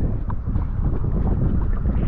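Steady wind buffeting the camera's microphone out on the open water of a kayak paddle, a loud low rumble.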